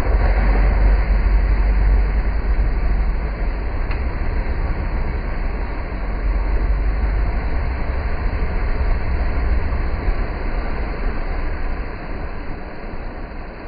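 Range Rover engine running steadily off-road in the mud, with a deep rumble that eases off toward the end.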